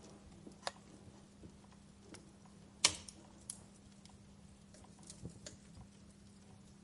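Wood fire crackling: scattered pops and snaps, the loudest about three seconds in, over a faint steady hum.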